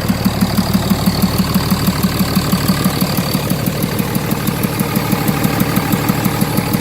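M35A2 truck's newly installed engine idling steadily on its first run after an engine swap, with an even, fast pulse to its beat.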